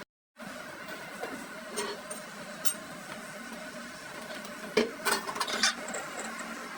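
A machine running with a steady hum of several held tones, with a few sharp metal clinks, clustered around five seconds in, after a brief gap at the very start.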